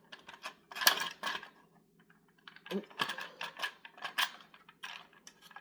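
Irregular light clicks and taps of hard plastic and metal parts being handled as a new ignition coil is fitted into an HEI distributor cap, the sharpest click about a second in and a busy run of clicks around three to four seconds in.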